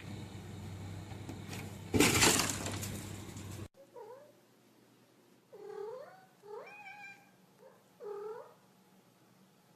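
A sudden loud burst of noise about two seconds in. After a cut, a domestic cat meows four times in long, drawn-out calls that bend up and down in pitch.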